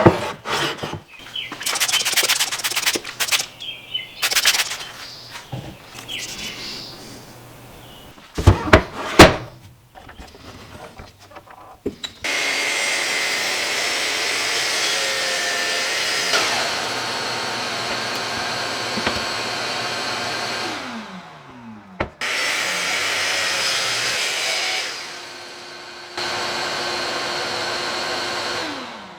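Handwork on wood: a run of knocks and clicks, with two sharp hard knocks about eight to nine seconds in. Then a small electric power tool runs steadily three times, each time winding down in pitch when it is switched off.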